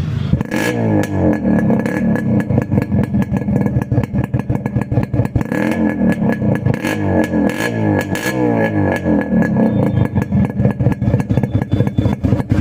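Yamaha RX100's two-stroke single-cylinder engine running through a modified exhaust, revved up and down again and again with a rapid train of sharp exhaust pulses.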